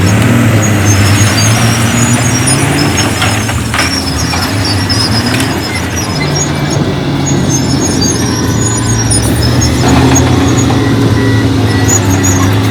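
Heavy diesel earthmoving machinery running under load, the engine note rising and falling, with a few clanks and intermittent high-pitched squeaks.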